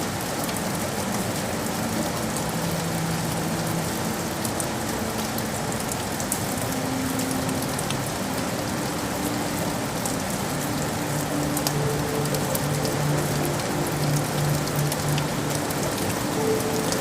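Steady rain falling on hard surfaces, an even hiss with scattered sharp drop ticks. Faint held low notes change slowly beneath it.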